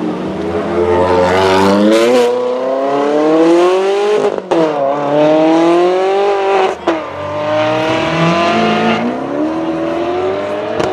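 Supercar engine accelerating hard through the gears: the pitch climbs steeply, with sharp upshifts about four and a half and seven seconds in, and another engine revs up near the end.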